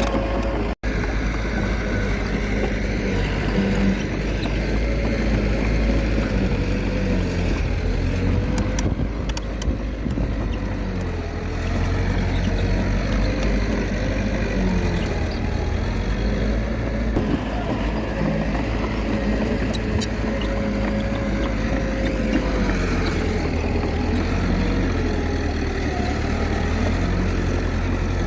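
Komatsu D21A mini bulldozer's diesel engine running steadily, its note rising and falling as the load changes, with a momentary gap about a second in.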